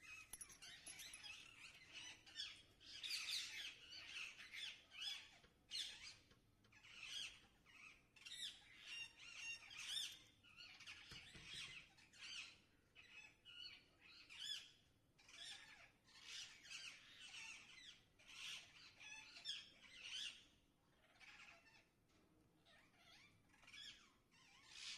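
Parrots chirping and squawking, faint: a long run of short, high calls one after another with brief gaps.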